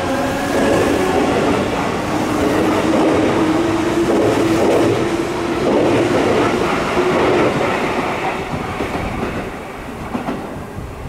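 Electric commuter train running along the platform, its wheels and running gear rumbling under a steady motor tone. The tone stops after about seven and a half seconds and the train noise grows quieter near the end.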